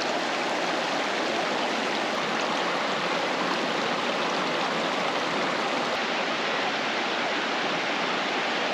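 Steady rushing of a fast, glacier-fed mountain creek running over rocks.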